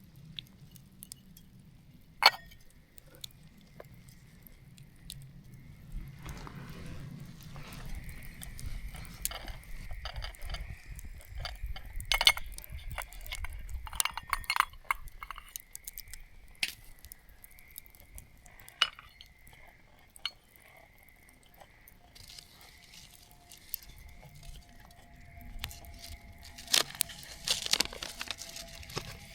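Scattered clinks and knocks of small hard objects being handled, such as camp cookware and utensils, with a faint steady high tone behind them.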